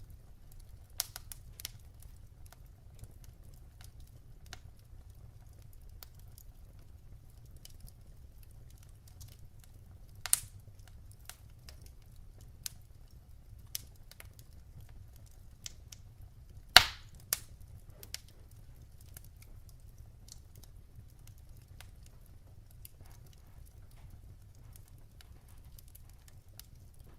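Wood fire crackling in a fireplace: irregular sharp pops and snaps, the loudest about ten seconds and about seventeen seconds in, over a low steady rumble of the burning.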